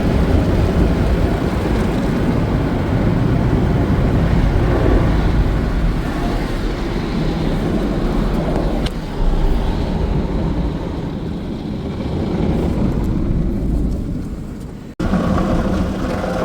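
Car wash equipment running with a loud, steady rushing noise that fades and breaks off suddenly near the end.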